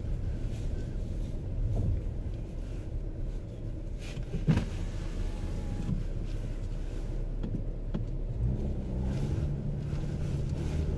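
Steady low engine and road rumble heard inside a moving car, with a brief click about four and a half seconds in and a low steady hum that comes in near the end.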